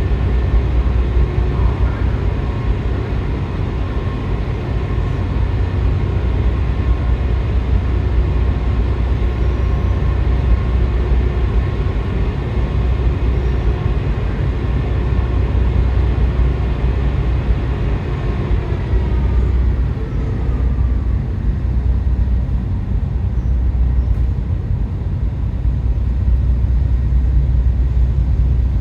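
Steady, loud low drone of a large ferry's machinery running at its berth, with a higher whine that falls in pitch and fades about two-thirds of the way through.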